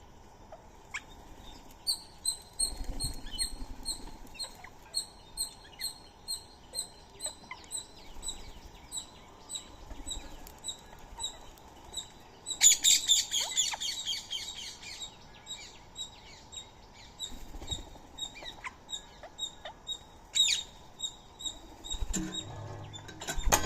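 A long run of short, high chirps repeated evenly at about two a second. A loud, harsh chattering burst comes about thirteen seconds in, and a shorter one a few seconds later.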